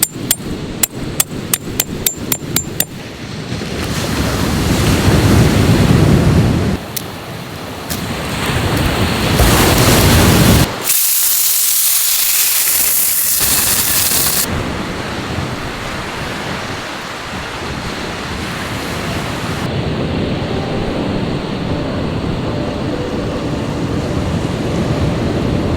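Seashore waves washing in, heard as a loud, even rush of noise that changes abruptly several times. A quick run of sharp clicks, about three a second, fills the first three seconds.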